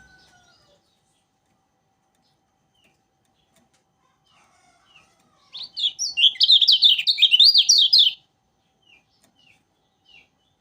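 Kecial kuning songbird singing: a few scattered short chirps, then about halfway through a loud, rapid run of quickly rising and falling notes lasting under three seconds, followed by more single chirps.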